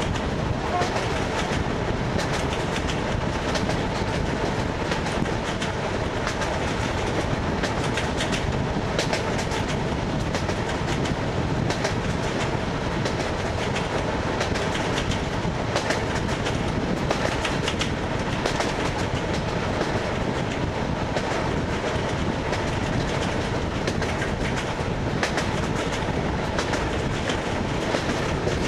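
ED9MK electric multiple unit running on jointed rails: a steady rumble of the moving carriage, with the clickety-clack of the wheels striking the rail joints.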